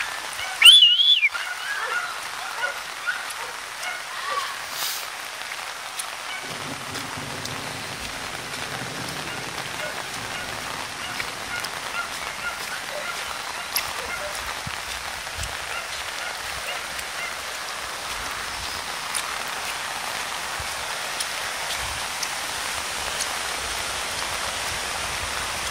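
Heavy rain falling steadily. About a second in there is one brief, loud, high-pitched sound.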